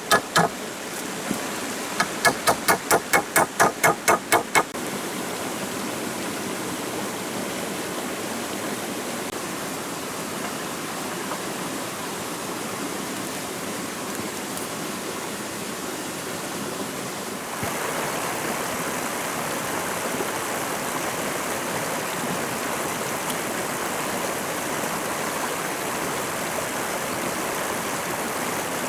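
Steady rush of flowing stream water. During the first five seconds there are quick, evenly spaced ringing knocks, about four a second, which then stop. About 18 seconds in, the water gets a little louder.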